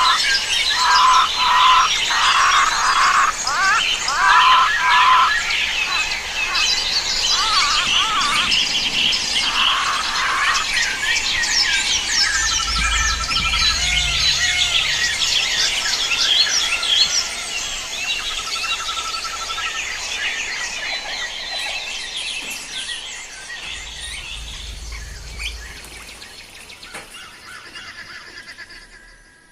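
Many small birds chirping and twittering together in a dense, overlapping chorus, with a run of repeated lower notes in the first few seconds. The chorus fades away near the end.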